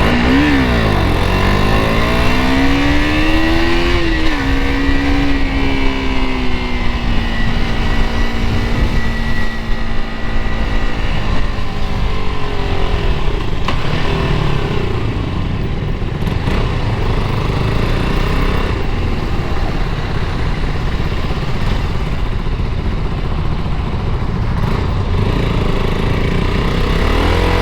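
KTM RC 200's single-cylinder engine under way: its pitch dips, then climbs over the first few seconds, holds steady for several seconds and then fades. A constant low wind and road rumble runs underneath.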